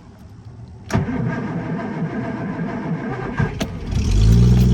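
A 1968 Triumph Vitesse's straight-six engine being cold-started on a cold morning. The starter cranks unevenly from about a second in, and the engine catches near the end and settles into a steady idle.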